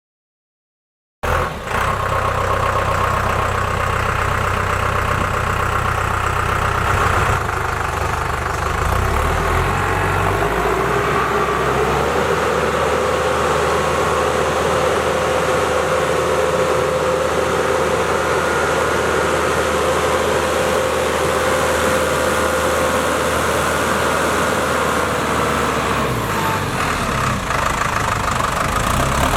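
New Holland T5060 tractor's diesel engine running steadily after the sound comes in about a second in, with small shifts in its low tone partway through.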